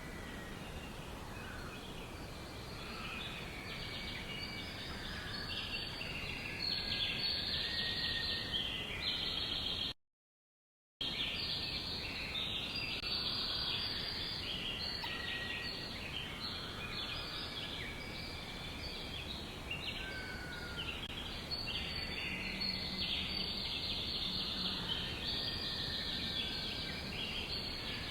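Many small birds chirping and trilling together in a dense, continuous chorus over a steady background hiss. The sound cuts out completely for about a second about ten seconds in.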